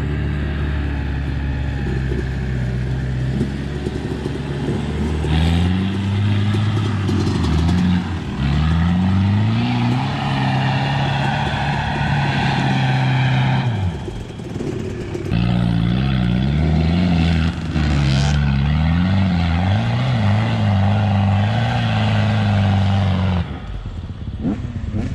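Off-road vehicle engine running under load. Its pitch climbs about six and nine seconds in and holds, then rises and falls with the throttle in the second half before cutting off near the end.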